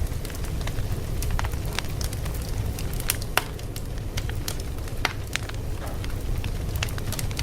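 Wood fire crackling: a steady low rumble of flames with frequent sharp, irregular pops and snaps.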